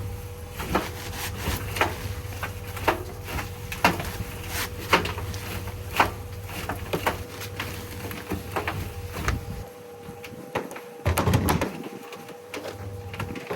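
Tumble dryer running with dry sand and cement in its drum, used as a cement mixer: a steady motor hum under irregular knocks and clicks, about one or two a second, as the mix tumbles.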